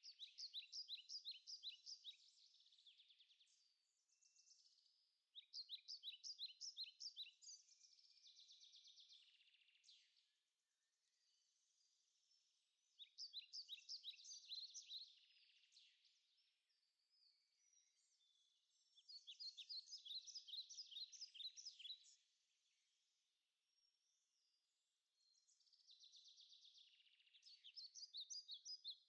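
A songbird singing faintly: five phrases of quick repeated high notes, each about two seconds long with a softer tail, coming about every six seconds.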